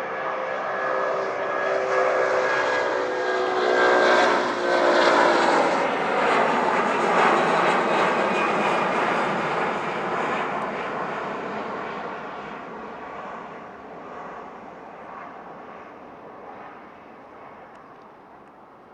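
Jet airliner's engines passing close by, loud, with a whining tone that slides downward as the plane goes past. The sound then fades steadily away.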